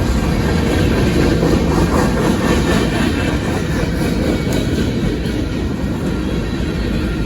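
Freight train rolling past at close range: a steady heavy rumble with wheels clattering over the rails.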